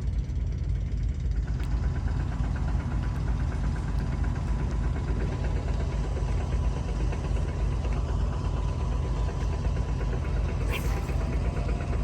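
Large diesel engine running steadily: a low rumble with a fast, even knocking beat and a steady hum on top. One brief click near the end.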